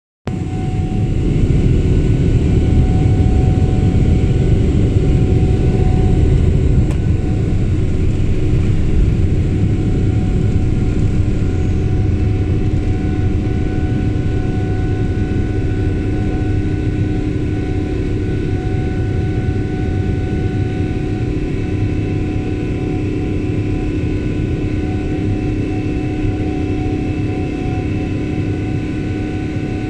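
Passenger jet's engines running at takeoff power: a loud, steady rumble with several steady whining tones above it, easing slightly after about six seconds.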